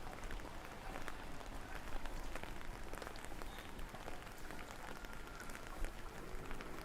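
Steady rain falling, with many small, sharp ticks of individual drops striking hard surfaces close by.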